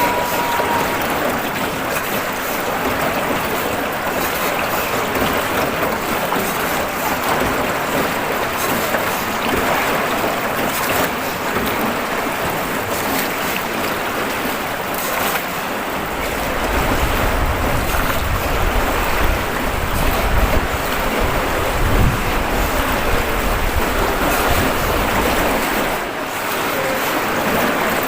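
Steady wash of wind and water during a river boat ride, with low wind buffeting on the microphone through the second half that fades out near the end.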